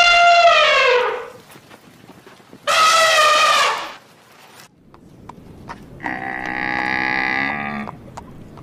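Two high elephant trumpet calls about three seconds apart, the first sliding down in pitch as it ends, then a cow mooing in one long, lower call about six seconds in.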